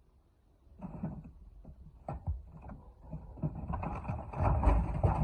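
Irregular knocks and rattles of work on formwork, thickening into louder, denser clattering with a low rumble over the last second or so.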